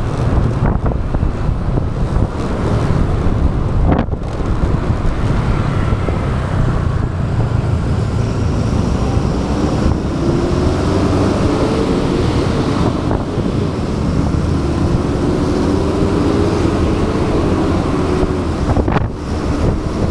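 Riding motorbike heard through an action camera's microphone: steady wind rumble on the mic over engine and road noise. In the second half a faint engine whine rises and falls as speed changes.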